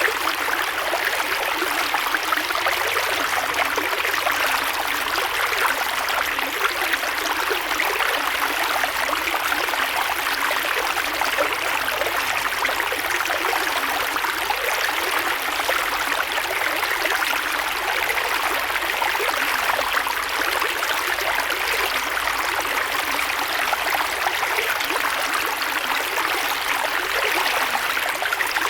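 Creek water flowing and splashing over stones, a steady rushing babble with fine trickling detail.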